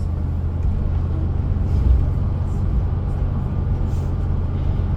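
Steady low rumble of a city bus under way, heard from inside the passenger cabin, with a low bump about two seconds in.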